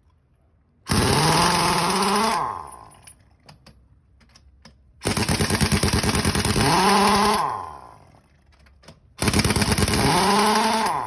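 Truck air horn sounded in three long, harsh blasts, each starting abruptly. Each blast's pitch climbs as the air pressure builds and sags as it dies away.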